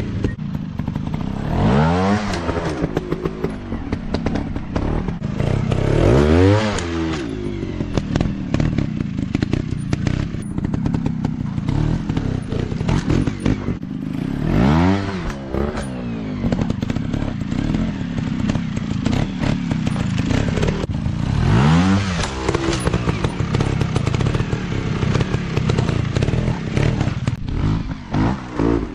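Off-road dirt bike engines running under load on a trail ride, revving up and back down about four times, with a steady clatter of knocks and scrapes from the bikes working over rough ground.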